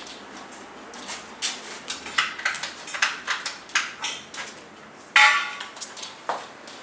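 Metal pieces, likely aluminium profiles and fittings, being handled: a quick run of light clinks and knocks, then one loud metallic clang that rings on briefly about five seconds in.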